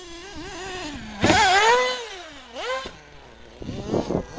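Redcat Hurricane RC car's motor revving up and down, its pitch rising and falling over and over, loudest in a burst about a second in. Near the end comes a short rough noisy burst.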